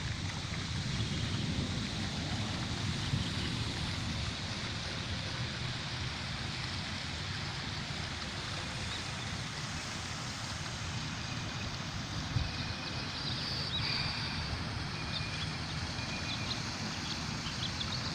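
Outdoor pond-side ambience: a steady rumbling hiss of wind on the microphone, with faint short chirps in the last few seconds.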